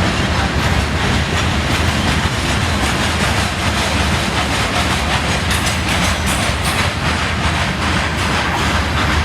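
A train rolling past close by: a steady, loud rumble of wheels on rail, with clicking from the wheels throughout.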